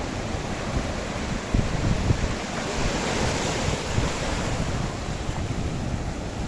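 Sea surf washing onto a beach, with a wave breaking and hissing about three seconds in, and wind buffeting the microphone.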